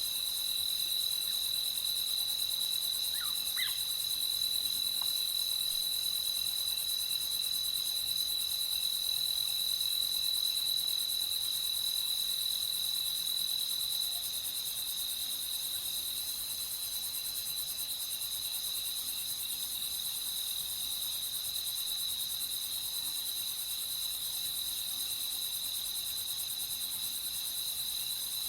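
Night insects, crickets, trilling in one steady high-pitched continuous chorus, over a fainter high hiss of other insects. A couple of faint short chirps stand out about three seconds in.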